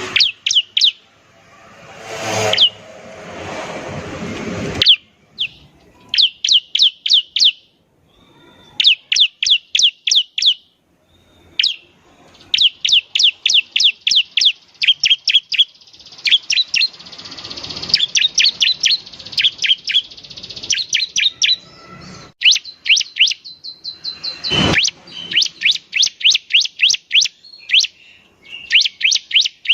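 Bar-winged prinia (ciblek) singing in the 'semi' style: rapid runs of sharp rising chirps, many a second, in bursts separated by short pauses. A rushing hiss comes a few seconds in, and a single sharp click comes about twenty-five seconds in.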